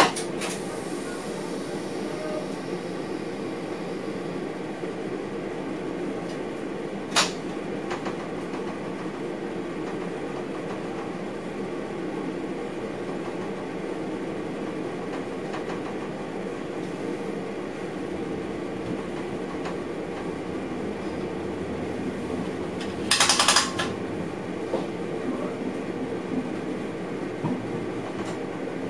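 Inside a train driver's cab while the train runs along the track: a steady running rumble and hum, broken by a sharp click about seven seconds in and a short, louder rattle of clicks a little over twenty seconds in.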